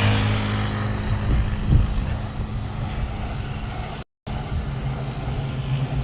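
Steady, loud drone of a vehicle, with held low tones under a wash of noise. The sound cuts out for a moment about four seconds in, then the drone resumes.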